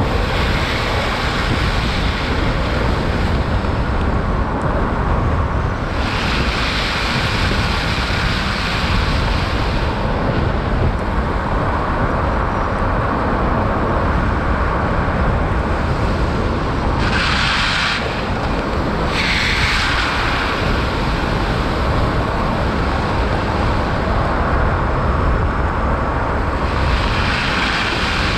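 Steady road and wind noise from a Tesla Cybertruck driving on a snow-covered highway, with no engine sound. The upper hiss swells and fades several times, with two short surges about two-thirds of the way through.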